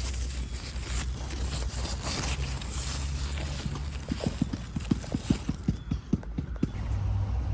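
A quick, fairly even run of knocks, about five a second for nearly three seconds, over a steady low rumble.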